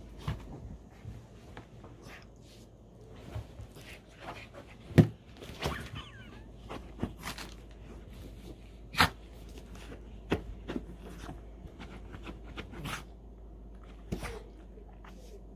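A dog rubbing and scrambling about to dry its own fur after a bath: irregular thumps and scuffs, the loudest about five and nine seconds in.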